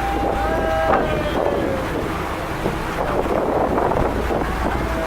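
Tour boat's engine running with a steady low rumble, under wind buffeting the microphone.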